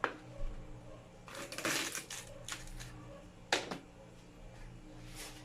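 Kitchen handling sounds: a sharp knock at the start, a short clatter of dishes and utensils about a second and a half in, and another sharp knock about three and a half seconds in.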